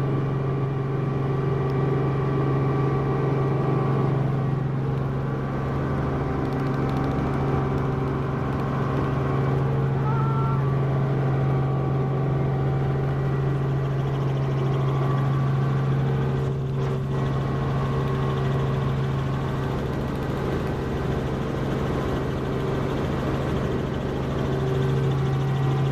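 Helicopter engine and rotor noise: a steady drone with a strong low hum and several steady higher tones.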